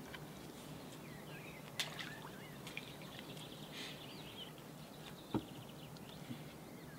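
Birds chirping faintly over quiet outdoor background sound, with two short sharp knocks, the louder one about five seconds in.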